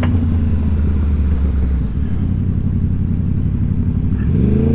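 Sport motorcycle engine running at low revs as the bike slows and rolls into a parking lot, with the pitch rising again near the end as the throttle is opened.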